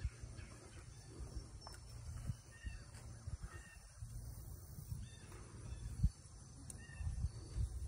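A bird giving a few short, faint calls over a steady low rumble, with one sharp thump about six seconds in.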